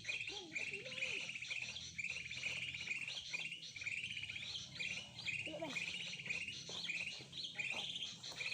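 Songbirds chirping: a short, high, rapidly trilled chirp phrase repeated about once a second, with fainter calls underneath.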